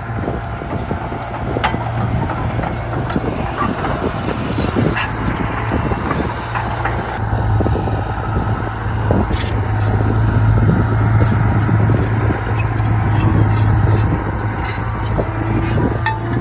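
A heavy diesel earthmoving machine runs steadily, growing louder in the middle, with scattered clanks and knocks over the engine drone.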